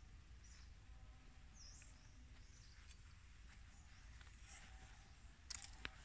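Faint forest ambience with scattered short bird calls and chirps over a low rumble, and two sharp clicks near the end.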